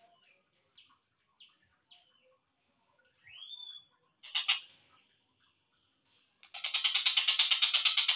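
Slowed-down recording of tengkek buto kingfisher calls. A few short chirps come first, then a rising whistle about three seconds in and a sharp call near four and a half seconds. From about six and a half seconds a loud, rapid pulsing trill begins.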